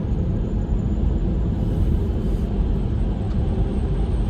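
Road and wind noise inside a Tesla Model 3's cabin while it drives at speed: a steady low rumble, with a faint high whistle from a wind leak that new rubber seals have not cured.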